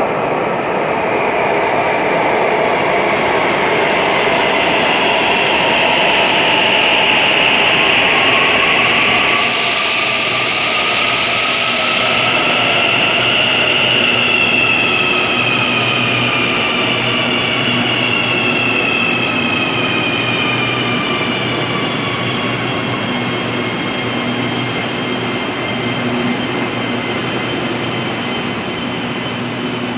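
Santiago Metro AS-14 train running, heard from on board: a steady rumble with whining tones that climb and then slide down again as it speeds up and slows. A brief sharp hiss about ten seconds in.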